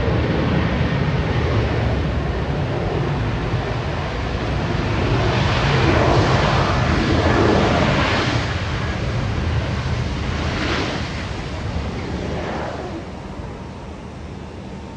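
Airbus A321 airliner's jet engine noise, a continuous rushing that swells a few times and then fades over the last few seconds as the aircraft moves away.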